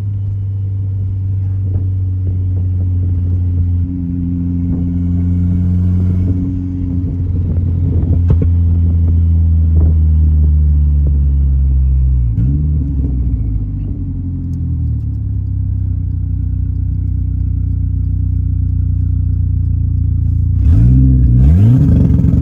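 Dodge SRT-4's turbocharged 2.4-litre four-cylinder heard from inside the cabin under acceleration. The pitch climbs, dips at a gear change about halfway, and climbs again. Near the end a quick drop and rise in revs comes with a burst of sharp exhaust pops, the kind the newly fitted wide-open-throttle box is meant to produce on a flat shift.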